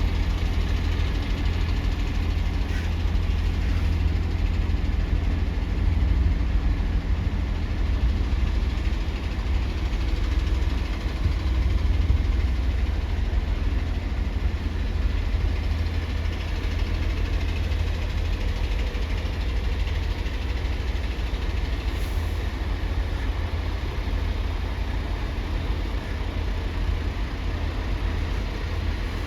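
Heavy vehicle engines running with a steady low rumble.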